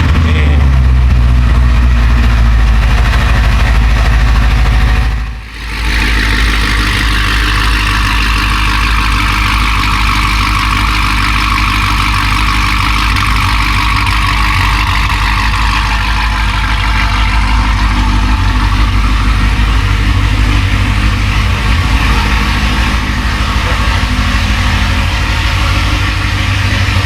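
A car engine idling loud and steady, with a brief drop about five seconds in before it goes on steadily again.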